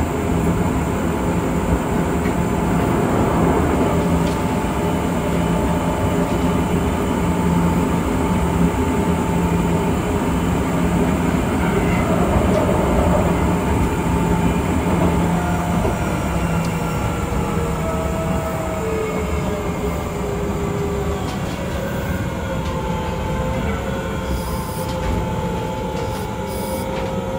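Onboard running sound of an Osaka Metro 66 series train with a Toshiba IGBT inverter: a steady rumble of wheels on rail. In the second half a thin motor and inverter whine comes in and falls slowly in pitch as the train slows.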